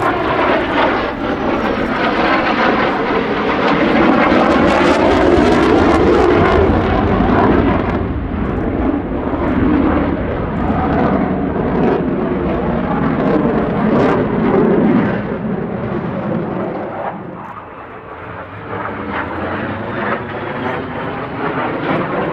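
An RCAF CF-18 Hornet's twin General Electric F404 turbofan engines roaring as the fighter flies its display, with the pitch of the roar sweeping as it passes. It eases off for a moment near the end and then builds again.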